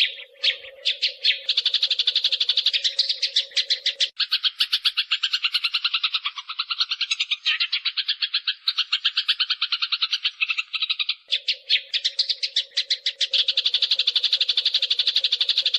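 Eurasian tree sparrows fighting: a dense, unbroken run of rapid, harsh chattering chirps, many each second. A faint steady hum sits under the chirps for the first few seconds and again near the end.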